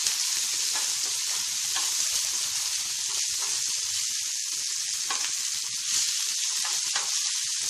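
Tomato pieces, mustard seeds and curry leaves sizzling steadily in hot ghee and oil in a stainless steel pan, the tempering for a dal gravy. A spatula stirs them, scraping and lightly tapping the pan now and then.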